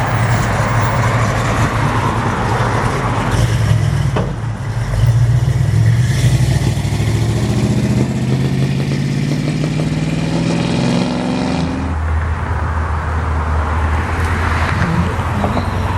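Car engine running, its pitch climbing steadily as it accelerates through the middle, then dropping to a lower steady rumble about twelve seconds in.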